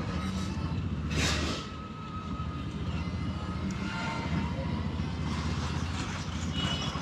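A 100cc motorcycle engine runs steadily under way, heard from a mic inside the rider's helmet, with traffic noise around it and a brief whoosh about a second in.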